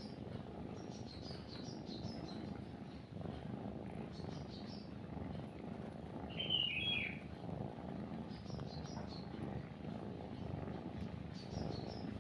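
Cat purring steadily and closely, with small birds chirping in short high clusters every few seconds and one louder, lower call about six and a half seconds in.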